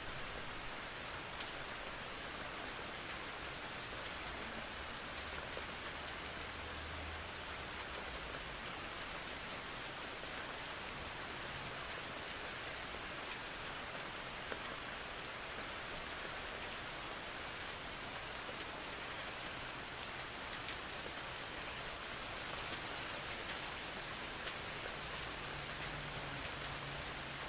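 Steady heavy rain falling, an even hiss with scattered drop ticks. A faint low rumble swells and fades about five seconds in.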